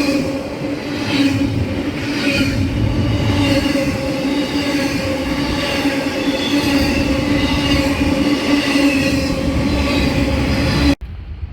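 Freight train rolling past, its steel wheels running on the rails with a steady tone over the rumble. It cuts off suddenly near the end.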